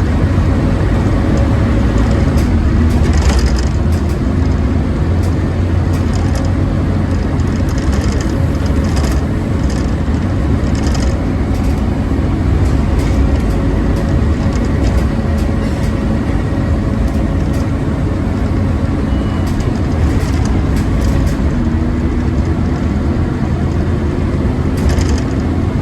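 Scania OmniCity double-decker bus running: a loud, steady low engine drone with brief clicks and rattles scattered through it. The loud whirring is what bus enthusiasts call a 'hoover'.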